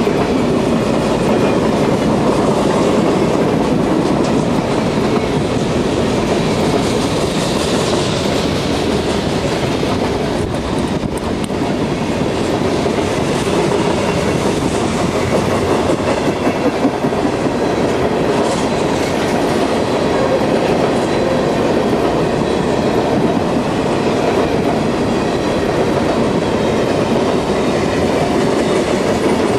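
A long freight train's cars rolling past close by: tall woodchip cars, a covered hopper and tank cars, with the steady, loud rumble and rattle of steel wheels on the rails going on without a break.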